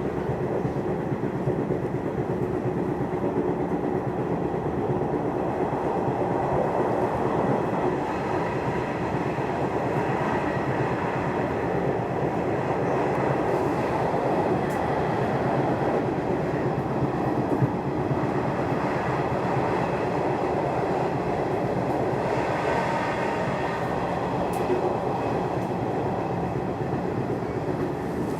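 Nishitetsu Tenjin Ōmuta Line electric train running at speed, a steady rumble of wheels on the rails. A faint whine comes in briefly about three-quarters of the way through.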